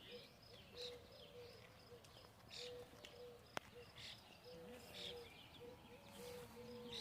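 Faint outdoor birdsong: scattered chirps from several birds and a repeated low, short call in the background, with a single sharp click about three and a half seconds in.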